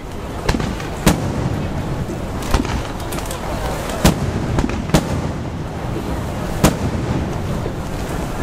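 Aerial firework shells bursting overhead: about seven sharp bangs at irregular intervals, the loudest about four seconds in, over a steady hiss.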